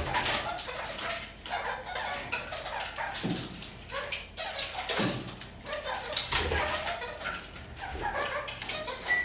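Red-crowned kakariki (parakeets) chattering and calling: a dense run of short chirps and clicks, with a few quick downward-sliding calls.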